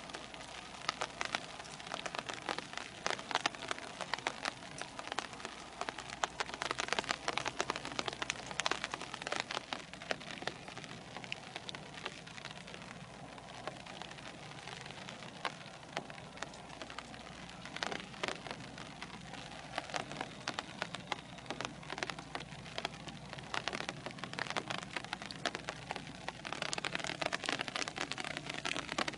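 Rain falling and spattering: a dense, uneven crackle of many small drops, heavier in spells.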